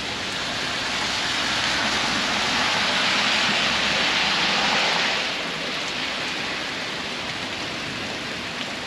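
Heavy rain falling steadily, a hiss that swells louder for a few seconds in the middle and then eases back.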